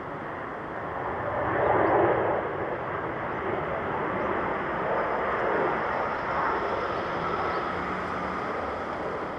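Jet airliner passing close by, most likely on landing approach. The engine rush swells to its loudest about two seconds in, then holds as a steady roar with a faint high whine, easing near the end.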